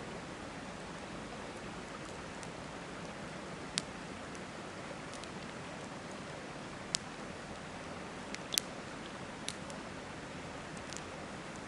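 Wood campfire crackling with a handful of sharp, scattered pops, over the steady rush of a river.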